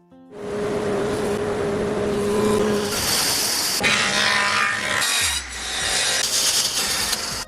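Loud rasping workshop noise of a tool abrading or cutting material. It starts abruptly, carries a steady tone for the first few seconds, and grows harsher and hissier about three seconds in.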